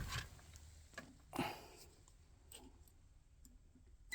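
A few faint, scattered clicks and light knocks from parts or tools being handled, with long quiet stretches between them.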